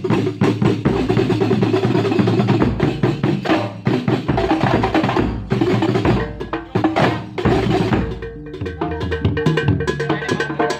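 Kuntulan ensemble music: dense, fast hand-drum and frame-drum percussion over a steady pitched melody, lightening somewhat after about eight seconds.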